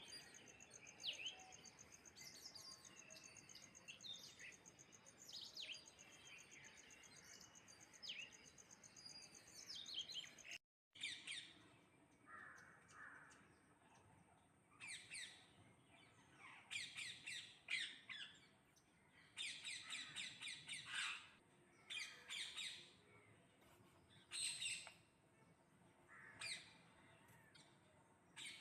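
A flock of parrots calling, with repeated harsh squawks and chirps in short clusters. The sound drops out briefly about eleven seconds in, and after that the calls come in frequent bursts.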